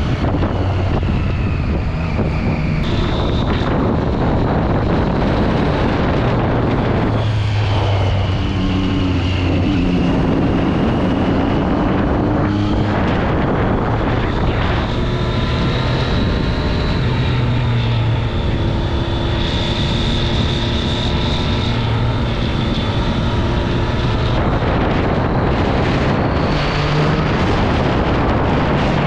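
Triumph Street Triple 675's inline-three engine through its stock exhaust, under way on the road, the revs rising and falling several times as the bike accelerates and changes gear, with wind noise over it.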